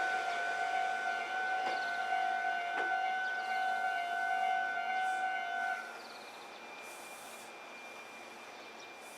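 Steady electrical whine from a standing electric train, two held tones with a couple of faint clicks, which cuts off suddenly about six seconds in and leaves a low hiss.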